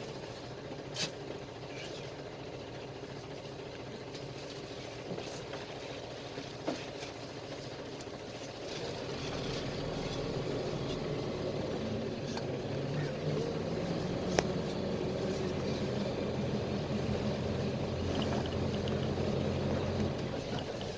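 PAZ-320405-04 Vector Next bus heard from inside the cabin, its engine running with a steady low drone and road noise. About nine seconds in, the drone grows louder and stays steady as the engine comes under load, then eases off near the end. A few short rattles and clicks come from the cabin.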